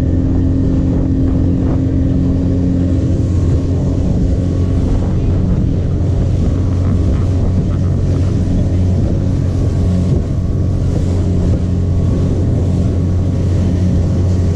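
Motorboat engine running at a steady speed while the boat is underway, with wind buffeting the microphone.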